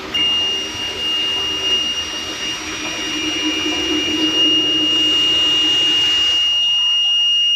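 Water-leak detection alarm sounding one steady high-pitched tone that switches on suddenly, the sign that the sensor has detected water and the shutoff has tripped. Water rushes underneath it.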